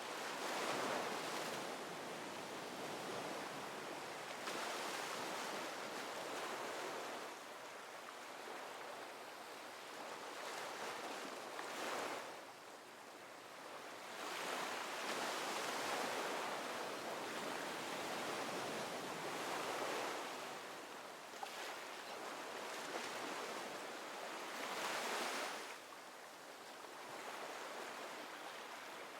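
Ocean surf: a steady rush of waves washing in, swelling and easing every four or five seconds.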